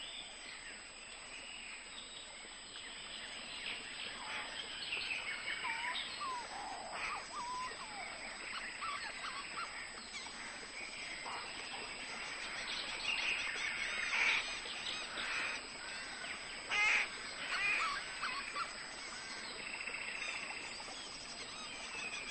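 A flock of shorebirds calling: many overlapping chirps and whistled calls that grow busier and louder past the middle, with a rapid trilled call about 17 seconds in.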